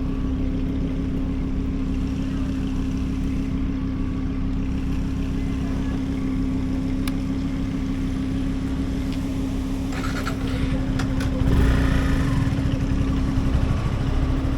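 Motorcycle engine running with a steady hum and road rumble. It grows louder about ten seconds in, with some brief rattling.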